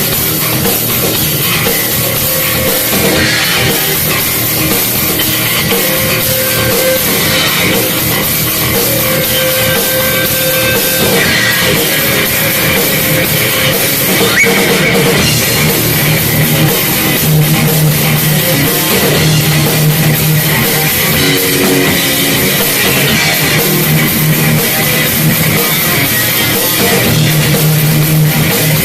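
A live heavy metal band playing an original song: distorted electric guitars, bass and a full drum kit running loud and steady.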